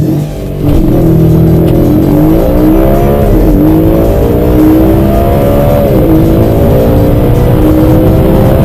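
Audi RS performance car's engine accelerating hard at full throttle, its pitch climbing steadily through the gears. It starts about half a second in, and two upshifts drop the pitch, about three and a half and six seconds in.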